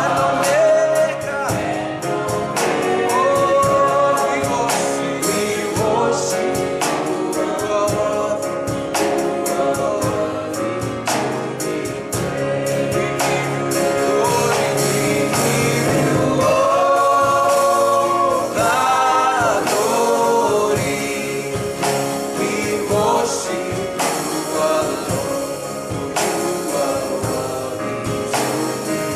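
Live gospel worship song: several voices singing together over band accompaniment with a steady percussive beat.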